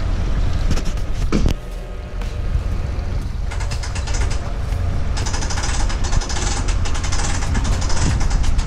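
A boat on its trailer being pulled out of the water by a tow vehicle: a low engine rumble under metallic creaking and rattling from the trailer, which grows busier about halfway through.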